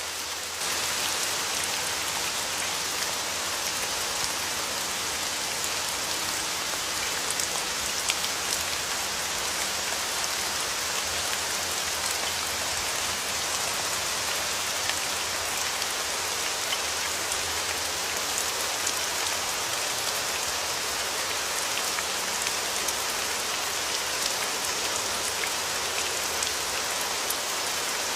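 Steady rain falling, an even hiss with scattered individual drop hits ticking through it.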